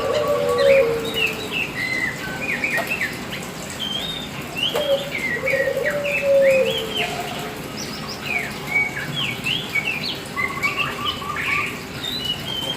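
Black oriental magpie-robin (kacer hitam) singing a fast, varied song of short whistled chirps and slurred notes. Lower falling notes sound underneath, at the start and again about five seconds in.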